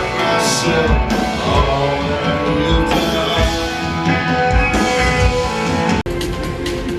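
Rock-style band music with guitars and a drum kit, the kind played in a church worship set. It breaks off abruptly about six seconds in and picks up again.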